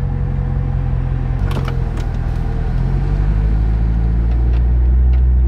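2007 Chevrolet C6 Corvette's 6.0 L LS2 V8 running at low speed, heard from inside the cabin as the car moves off. The engine note steps in pitch about a second and a half in, then grows into a stronger low drone near the end, with a few light clicks in between.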